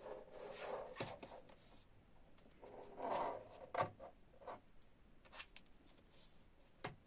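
Hands handling an unboxed fan heater and its packaging: scattered rustling and scraping, with a few sharp clicks and light knocks.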